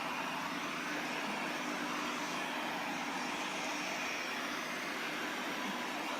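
ILIFE A4s robot vacuum cleaner running in spot-clean mode: a steady whirring noise from its suction fan and brushes, with a faint low hum underneath.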